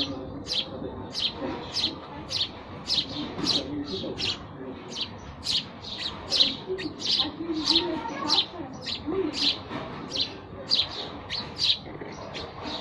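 House sparrows chirping: a rapid, continuous series of short, high chirps, about two to three a second.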